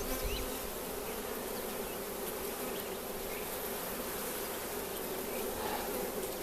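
Honeybee colony buzzing in an opened hive: a steady, even hum.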